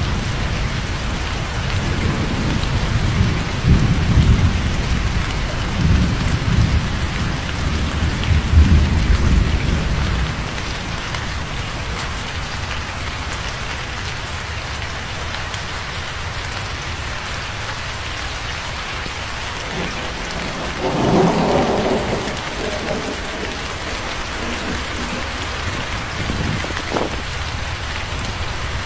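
Steady rain falling on a surface, with thunder rumbling low and heavy through the first ten seconds or so before fading to the rain alone. About two-thirds of the way through comes a brief louder burst.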